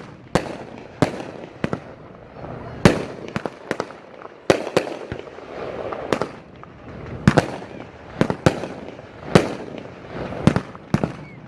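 A 500-gram consumer fireworks cake firing: a string of sharp bangs at uneven spacing, about one or two a second, with a rushing hiss between them.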